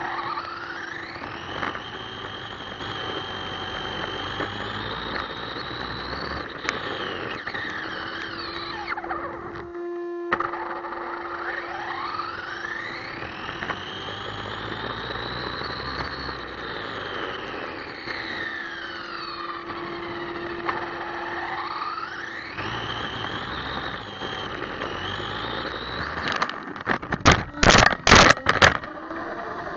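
Electric motor of an ECX Amp MT radio-controlled monster truck whining up and down in pitch over and over as the truck speeds up and slows, over a steady hiss. Near the end comes a quick series of loud knocks and crackles.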